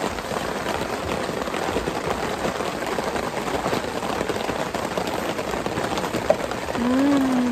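Steady rain drumming on a tarp overhead, an even hiss of many small drop ticks, with a person's brief hummed 'mm' near the end.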